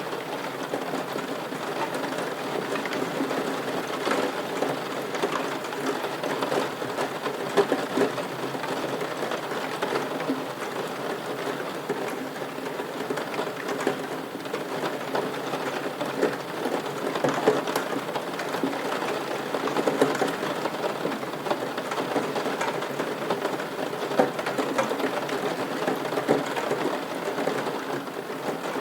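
Steady rain, a dense patter of drops with occasional louder single drips.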